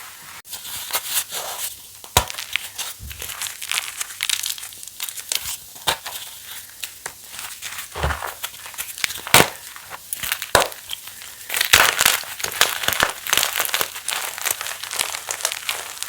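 Pasted (reformed) gym chalk crushing: continuous crisp crunching and crumbling, broken by several sharp cracks, the loudest about nine seconds in.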